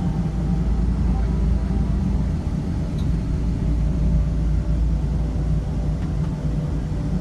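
Steady low rumble inside the cabin of a Boeing 777-200ER taxiing after landing, with a faint steady whine over it.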